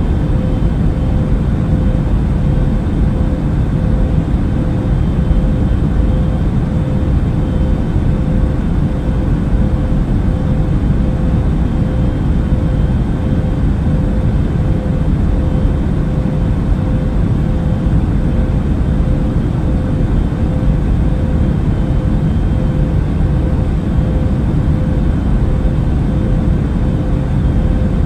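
Airliner cabin noise in flight: a steady low rumble and rush of air with a faint constant hum, unchanging throughout.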